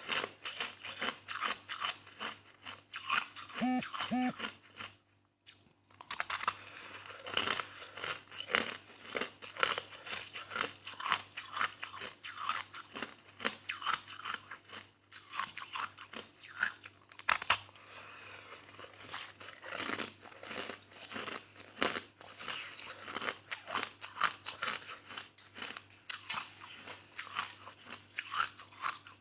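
Crushed soft ice being chewed in the mouth: a dense run of quick, irregular crunches, with a short pause about five seconds in.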